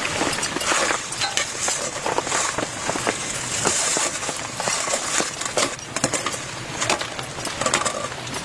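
Heavy rain falling on a tent: a steady dense hiss with many sharp drop taps at irregular times.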